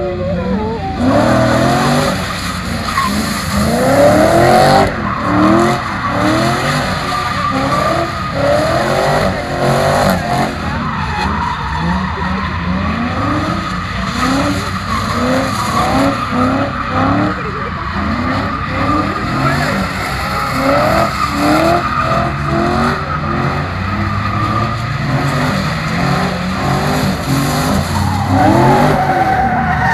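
Ford BA Falcon XR8's V8, breathing through 4-into-1 extractors and a twin exhaust, revving hard up and down again and again while the car is held in a first-gear drift, with its rear tyres skidding on the wet pad.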